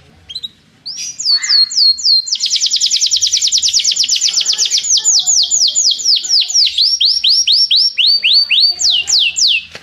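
Domestic canary singing a long rolling song of repeated down-slurred whistled notes, starting about a second in. The notes speed up into a rapid trill about two seconds in, then slow into separate falling notes, with a lower run of notes near the end.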